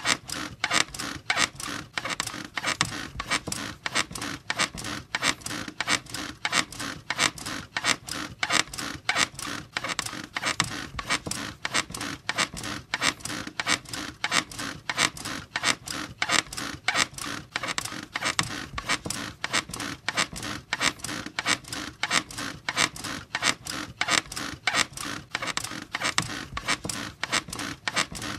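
Bed springs and frame squeaking and creaking in a fast, steady rhythm of about three strokes a second, as if from repeated bouncing on the mattress.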